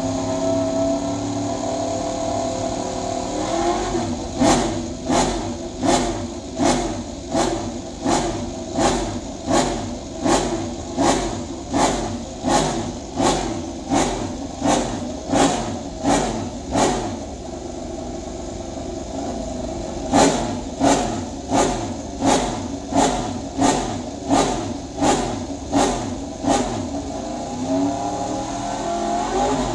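Racing motorcycle engine revved in quick repeated throttle blips, about one and a half a second, each revving up and falling back. It runs steadily for the first few seconds and eases briefly about two-thirds of the way through.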